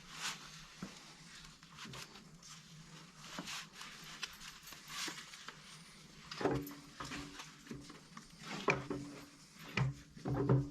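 Scattered light metallic clicks and knocks of steel machine parts being handled and shifted as the planer's cutter head and gearbox assembly is lowered into the machine and its bearings are lined up, a few louder knocks near the end.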